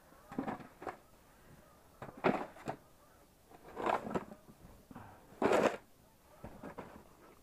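Snow being scooped and moved by hand: five short crunching scrapes, each about a second to a second and a half apart.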